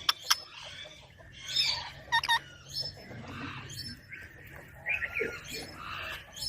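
Indian ringneck parakeet chattering: a scatter of short clicks, brief chirps and rougher squawky calls with short pauses between them.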